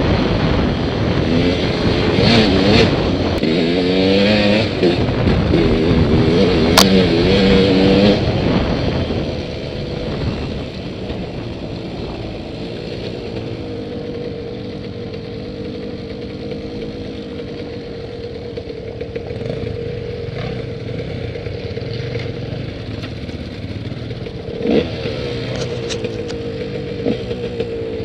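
Dirt bike engines revving and running, loud and changing pitch for the first eight seconds or so, then settling to a quieter steady drone, with a sharp click about seven seconds in and short revs again near the end.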